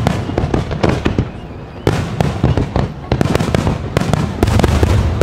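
Fireworks display: a rapid run of sharp bangs and crackling over a continuous low rumble of booms. Strong bangs come just under two seconds in and again about three seconds in, and the densest, loudest volley comes near the end.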